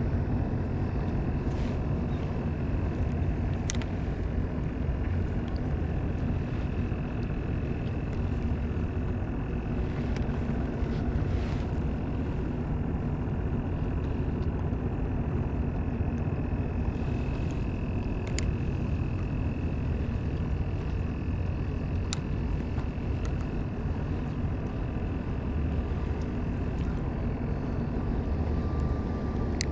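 A boat motor running steadily with a low rumble and a thin, even whine above it, and a few faint clicks.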